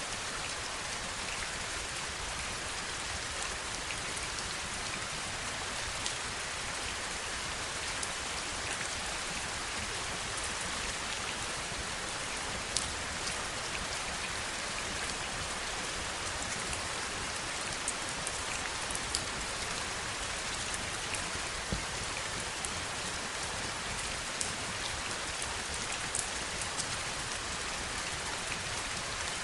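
Steady heavy rain: a dense, even hiss of rainfall with many sharp individual drop ticks scattered through it.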